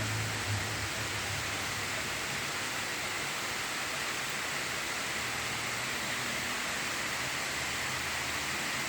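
A heavy rain shower pouring down as a steady, even hiss. A low rumble fades out about a second in.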